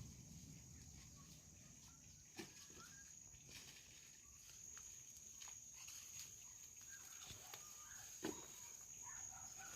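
Near silence: faint rural outdoor ambience with a steady high insect whine, and two soft knocks, one a couple of seconds in and one near the end.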